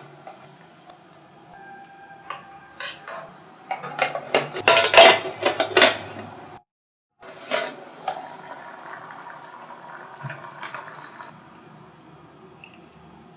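Metal utensils clinking and scraping against a metal mess tin, a busy run of clinks about four to six seconds in, breaking off briefly just after.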